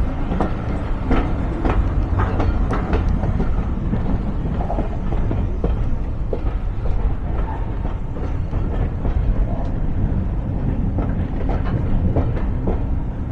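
Railway carriage running along the line, heard from on board: a steady low rumble with scattered clicks and knocks from the wheels and running gear, clustered about a second in and again near the end.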